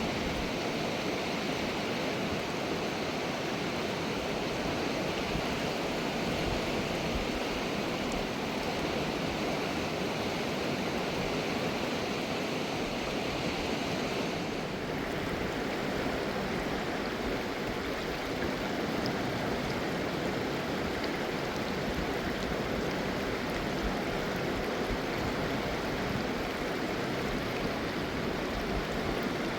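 Mountain river rushing steadily over rocks, with a slight shift in its tone about halfway through.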